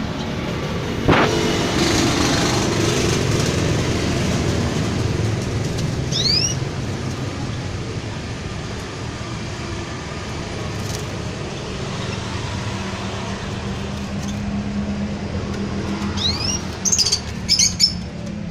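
Canary giving a few short rising chirps, about six seconds in and again near the end, where they run into a quick cluster of sharp high notes. Under them is a steady low rumble like distant traffic, with a single knock about a second in.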